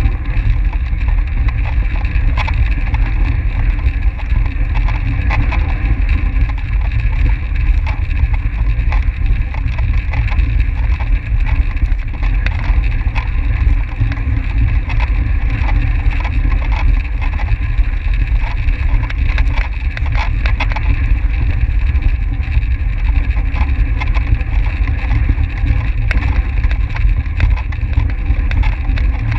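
Steady wind rush and rumble on the microphone of a track racing bicycle's onboard camera at race speed, with a steady whir from the bike over it and scattered small ticks.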